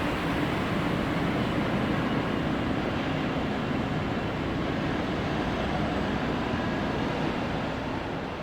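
Airbus A380 jet engines after takeoff: a steady, even rumble of jet noise as the airliner climbs away, beginning to fade near the end.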